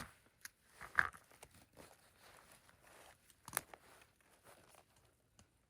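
Faint rustling and crinkling of hands, clothing and gear while a trail camera is fastened to a tree, with a few short sharp crackles: one about a second in and another about halfway through.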